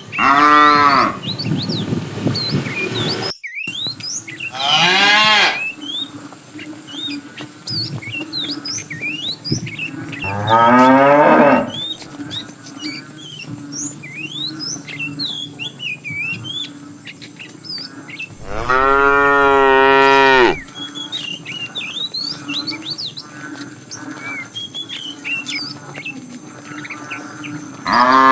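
Cattle mooing: four long, loud moos spaced several seconds apart, with a fifth starting near the end. Small birds chirp in between.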